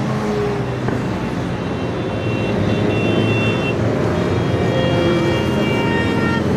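A column of motorcycles riding past, many engines running at once, with several engine notes overlapping and shifting in pitch.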